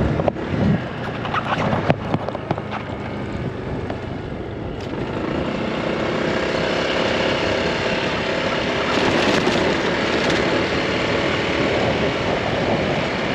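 Honda Click 160 scooter's single-cylinder engine running while riding, with wind rushing over the microphone, growing gradually louder. A few clicks and knocks in the first couple of seconds.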